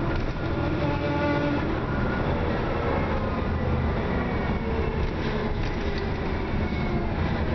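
Dennis Trident double-decker bus engine and drivetrain under way, with a loud high whine that stops about a second and a half in. After it comes a dense low engine rumble, with a brief whine again midway. This is the odd acceleration noise of a bus described as clapped out.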